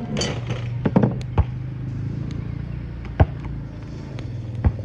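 A motor runs steadily with a low hum, and about five sharp knocks sound over it: two close together about a second in, one a moment later, one past three seconds in and one near the end.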